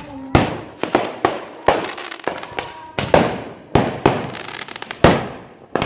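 Fireworks going off: about ten sharp bangs in quick, irregular succession, each trailing off.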